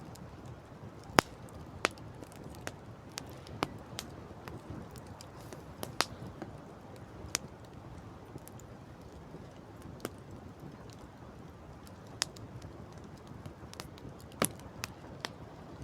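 Wood campfire crackling: irregular sharp pops and snaps, a sharp one about a second in and another near the end, over a steady low background rush.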